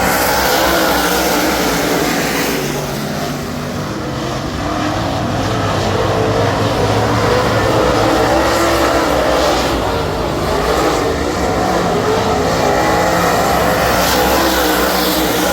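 A super late model race car's Ford 422 cubic inch V8 at racing speed, heard from inside the car. The revs rise and fall continuously, with a brief drop in level about three seconds in.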